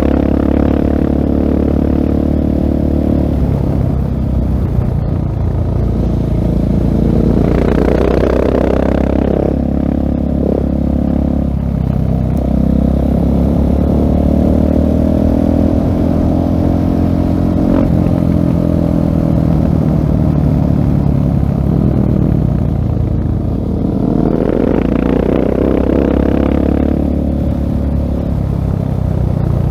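Husqvarna 701 Supermoto's single-cylinder engine through a LeoVince full-system exhaust, ridden hard: its pitch climbs and falls as the rider accelerates and rolls off through the gears. A rushing noise swells over it three times.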